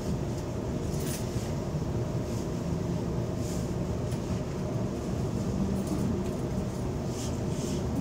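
Steady low rumble of a Sydney Trains electric suburban train moving slowly along a station platform, heard from inside the carriage, with a few faint short high ticks now and then.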